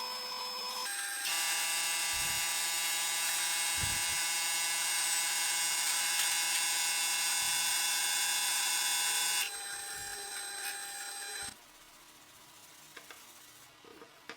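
Electric power tool motor running at a steady speed with a high whine. It is loud from about a second in until about nine seconds, runs more quietly for two more seconds, then stops, leaving a few faint clicks.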